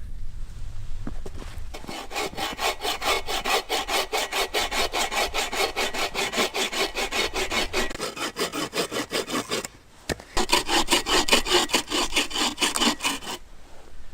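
Hand saw cutting wood with quick, even back-and-forth strokes, starting about two seconds in, pausing briefly about ten seconds in, then resuming until near the end.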